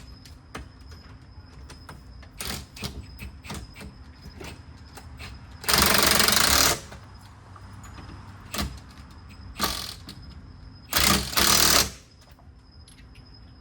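Impact wrench hammering on lug nuts in bursts. One burst of about a second comes around six seconds in, and two quick back-to-back bursts come around eleven seconds in, with shorter blips and light clinks between.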